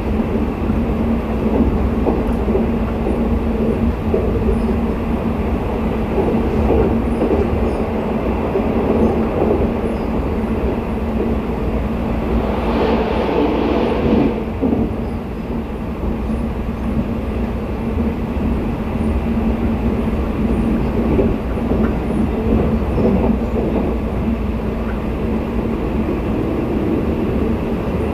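Steady running noise of a sleeper train coach rolling along the rails at speed, heard from inside the carriage, with a steady low hum. About halfway through, a brief rush of noise lasting a couple of seconds as another train passes close by on the adjacent track.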